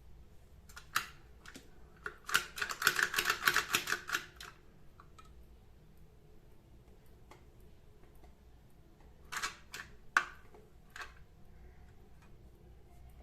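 Kitchen utensils clicking and tapping: a single click, then a quick run of rapid taps lasting about two seconds, and a few more scattered clicks later.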